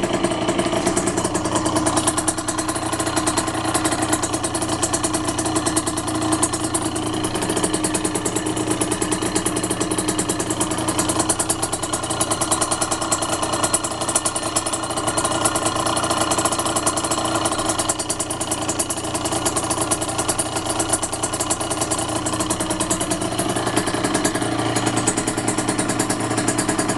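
Vehicle engine running steadily at an even, unchanging speed, a mechanical noise that the owner finds suspect.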